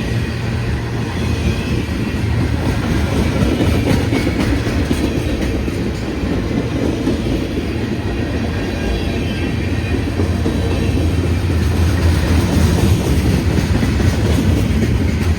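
A long freight train's cars rolling past close by: a steady rumble of steel wheels on the rails, with clickety-clack over the rail joints. It gets louder with a run of sharp clicks near the end.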